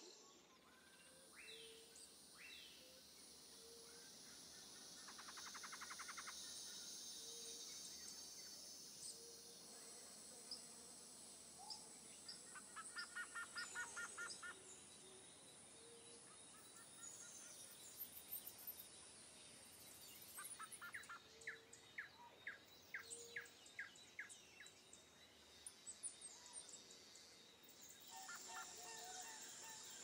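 Faint outdoor ambience: a steady hiss with birds chirping now and then, in quick trills and runs of short repeated notes.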